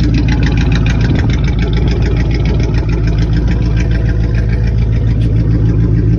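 Chrysler 300C engine idling steadily, its exhaust pulsing evenly.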